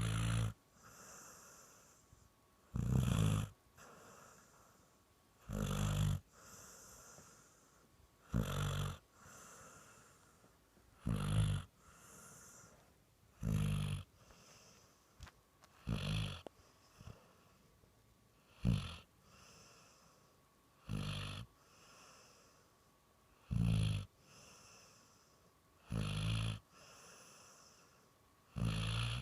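Dog in deep sleep snoring like a person: a loud, low snore on each breath in, about every two and a half seconds, with a softer breathy wheeze between them.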